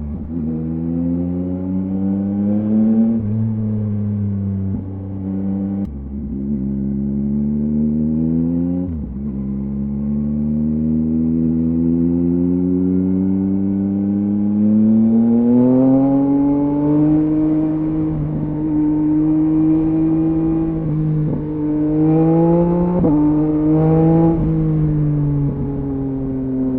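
A 2023 Yamaha MT-09's 890 cc inline-three engine through a LeoVince LV Race exhaust, accelerating through the gears. The pitch climbs and drops abruptly at each upshift, three times in the first ten seconds, then rises in a long climb and holds steady. A few sharp rises and falls in revs follow later, and the revs fall away near the end.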